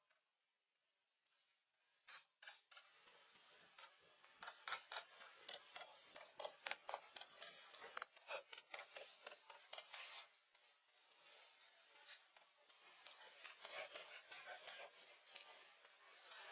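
Faint, quick scraping and crackling strokes of hand work, several a second, starting about two seconds in.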